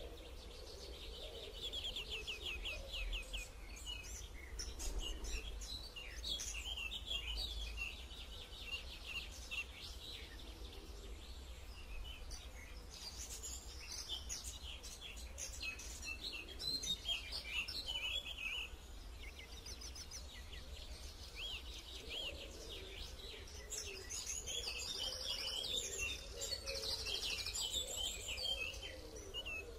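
Many birds chirping and trilling in overlapping, quickly repeated calls, over a steady low rumble.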